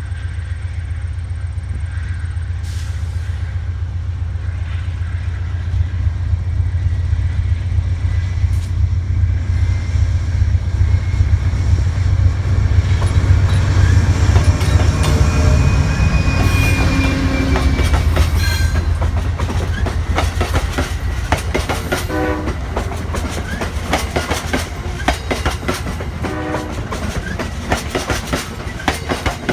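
Passenger train's diesel locomotive running with a heavy low drone that builds to its loudest about halfway through. In the second half, wheels click rapidly over rail joints.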